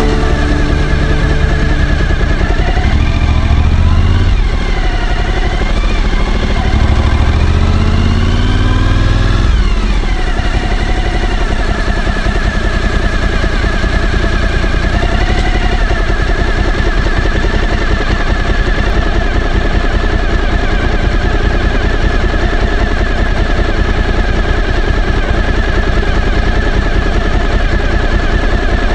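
Suzuki V-Strom 1000's V-twin engine accelerating up through the gears in the first ten seconds or so, its pitch rising and falling back with each shift, then running steadily at cruising speed.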